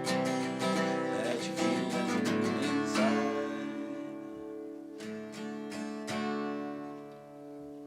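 Acoustic guitar strumming chords, then a few last strums about five seconds in that are left to ring and fade out.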